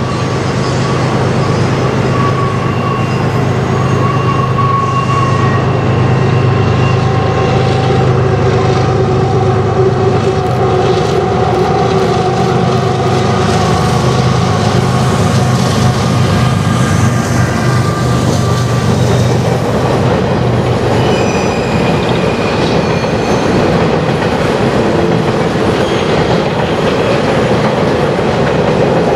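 Canadian Pacific diesel locomotives pass close by with a steady engine drone, which fades about 20 seconds in. A string of empty steel coal gondolas follows, rolling over a steel truss bridge with wheels squealing and clattering.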